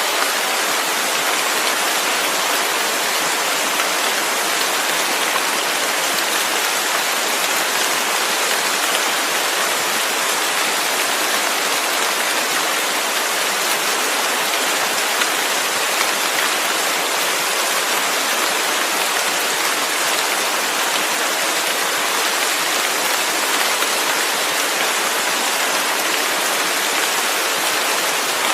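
Steady heavy rain, a continuous hiss with no breaks or separate drops standing out.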